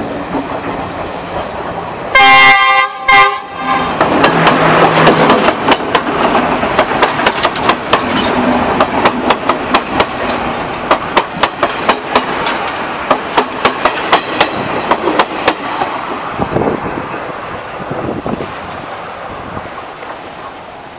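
A train horn sounds two blasts, the first longer. A passenger train then passes close by, its wheels clicking rapidly over the rail joints, and the clatter fades away over the last few seconds.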